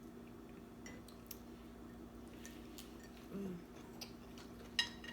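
Faint, scattered clicks and clinks of utensils against dishes during a meal, with a small cluster of them near the end.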